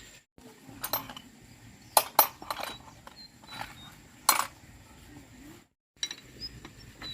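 Hard metal objects clinking and knocking together in a handful of sharp strikes, two close together about two seconds in and another loud one past four seconds.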